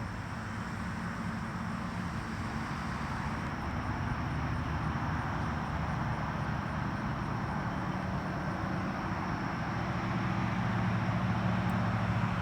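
A motor vehicle engine running steadily with a low hum, slowly getting a little louder.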